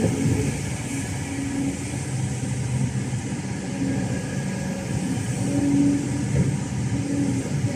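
Hino J05E-TG four-cylinder turbodiesel of a Kobelco SK210LC excavator running steadily, its note wavering slightly with a small swell in level about three-quarters of the way through.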